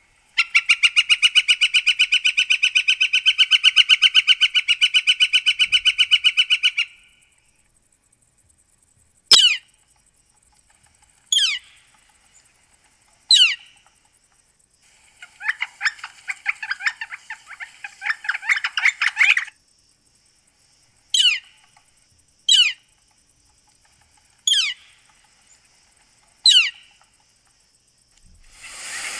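Northern flicker calling: a long, rapid, steady series of 'wick-wick-wick' notes for about seven seconds, then loud single 'kleer' calls that fall in pitch, a burst of quicker 'wicka' notes partway through, and four more single 'kleer' calls near the end.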